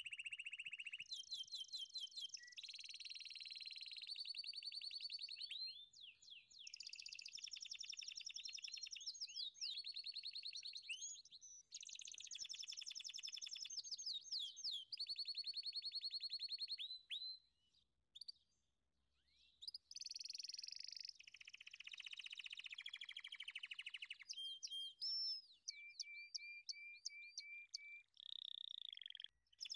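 Birds chirping and trilling: high-pitched runs of rapid notes that change every few seconds, with brief abrupt breaks. Near the end comes a short series of evenly spaced repeated notes.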